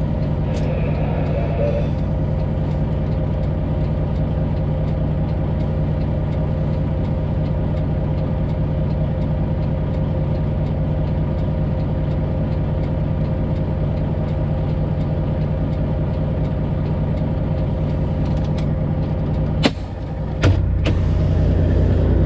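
Semi truck's Detroit Diesel 12.7 engine idling steadily. Near the end come two sharp knocks, after which the idle is louder.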